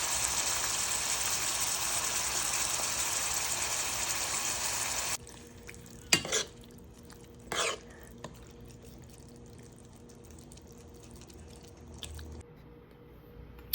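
A steady, water-like hiss for about five seconds that cuts off suddenly, then two brief sounds about a second and a half apart.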